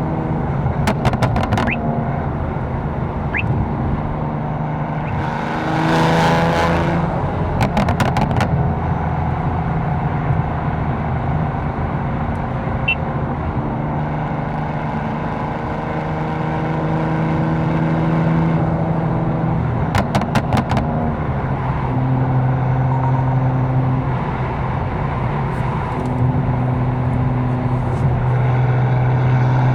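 A tuned 750 hp BMW M4's twin-turbo inline-six heard from the car while driving: a steady engine and exhaust note that shifts in pitch several times as the revs change. There is a rush of noise about six seconds in, and short clusters of sharp crackles about a second in, near eight seconds and near twenty seconds.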